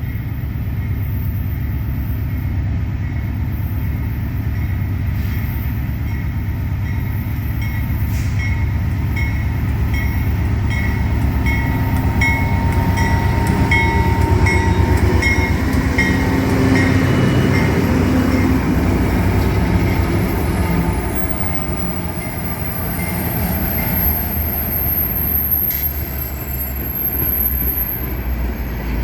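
Diesel-powered freight train running, with a heavy, steady low engine rumble. Mid-way there is a regular high clicking, about one and a half times a second, for several seconds.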